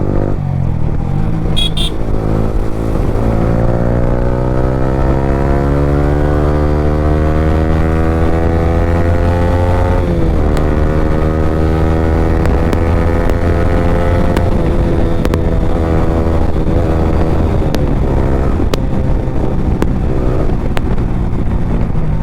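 Yamaha R15 V3's single-cylinder engine through an Akrapovic R9 exhaust with no dB killer, accelerating hard: the pitch climbs steadily for about ten seconds, drops at a gear change, climbs again, then holds at speed with small rises and falls.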